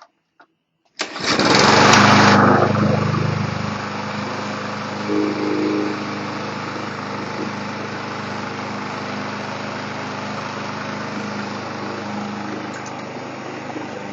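Push mower's small single-cylinder engine starting up about a second in, running loudest for a moment and then settling into a steady run.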